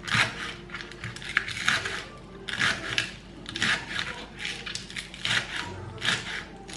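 A rhythmic series of short scraping strokes, about two a second.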